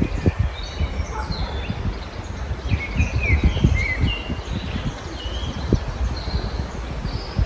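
Several small songbirds chirping and singing in short, overlapping phrases, over a gusty low rumble of wind buffeting the microphone.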